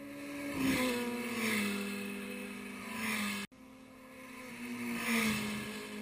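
Sport motorcycle engines going through a bend. The engine note rises and then falls as a bike passes, then cuts off sharply about three and a half seconds in, and a second pass builds up and fades.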